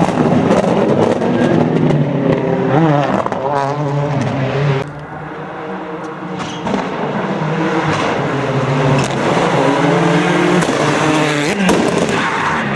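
Skoda Octavia WRC rally car's turbocharged four-cylinder engine revving hard and changing gear over and over, with a few sharp pops. The level drops about five seconds in, then builds again.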